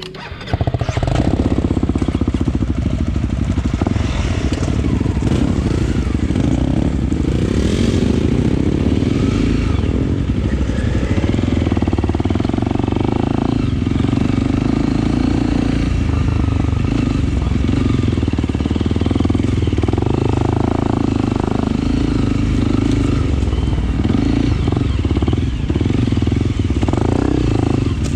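Honda CRF300L's single-cylinder four-stroke engine running under throttle as the dirt bike is ridden along a trail, coming in loud about half a second in and then holding steady with small dips.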